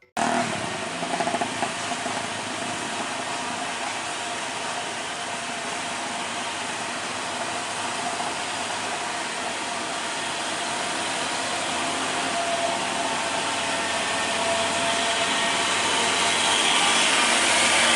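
Truck engine running with road noise, growing gradually louder toward the end.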